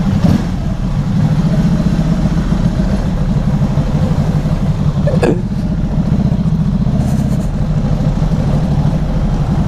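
Motorcycle engine running steadily while riding along, with noise from the moving air. A brief falling chirp comes about five seconds in.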